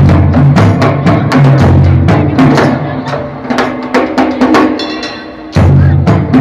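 Percussion ensemble playing a fast rhythm: deep booming drum strokes under sharp clacking hits. The deep drum drops back about four seconds in and returns loudly shortly before the end.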